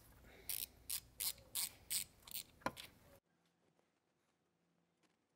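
Ratchet wrench clicking in short strokes, about three clicks a second, as a T30 Torx fastener is backed out. The sound cuts off abruptly about three seconds in.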